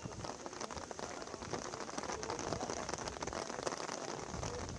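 Heavy rain falling: a steady, dense patter of drops hitting surfaces.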